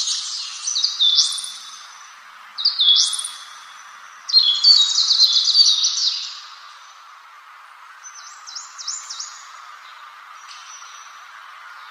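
A songbird singing in short, quick, high chirping phrases, loudest in the first six seconds, then fainter and more scattered. A steady background hiss runs beneath.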